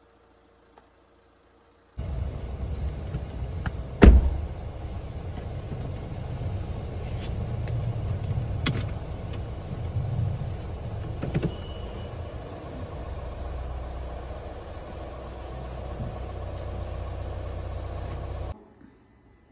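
Car engine running, heard from inside the car's cabin as a steady low rumble, with one loud thump about two seconds after it starts and a few light clicks. The sound starts and cuts off suddenly.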